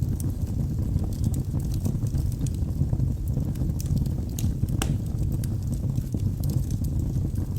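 Wood logs burning in a fireplace: a steady low rumble of flame with scattered crackles and pops, one sharper pop about halfway through.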